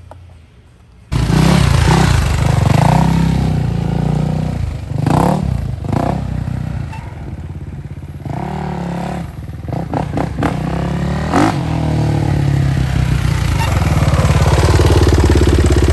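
Dirt bike engine running loudly and revving. It cuts in suddenly about a second in and runs hardest and steadiest near the end.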